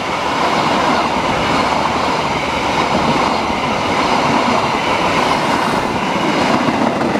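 Passenger train coaches passing close by at speed: a steady, loud noise of steel wheels running on the rails.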